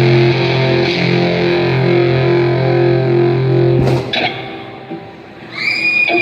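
Distorted electric guitar through effects playing a repeating riff, stopping with a sharp hit about four seconds in. Near the end a crowd starts screaming and cheering.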